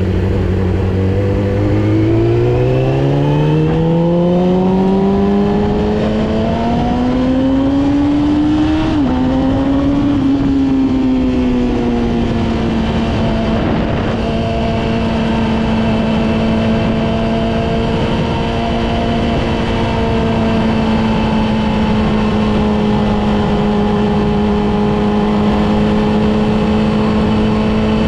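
Yamaha R6's inline-four engine accelerating, its pitch climbing for about nine seconds with a brief dip around a gear change, then easing off to hold a steady pitch at cruising speed.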